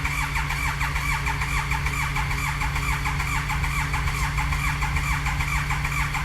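Triumph Speed Triple 1050's starter cranking its three-cylinder engine in a fast, even churn as the engine tries to fire on a cold start after five years of sitting. A steady low hum runs underneath.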